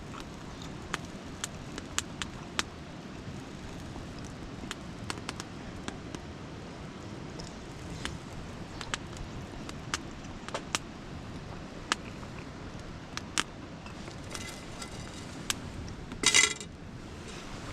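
Wood fire crackling, with scattered sharp pops over a low steady rush. A brief metallic clatter comes near the end.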